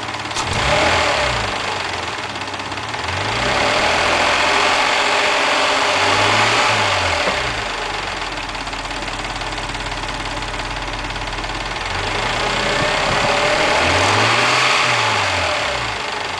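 Mazda MX-3 engine, warmed up to normal operating temperature, running with a clattering noise, its speed rising and falling again several times. The owner does not know what causes the clatter.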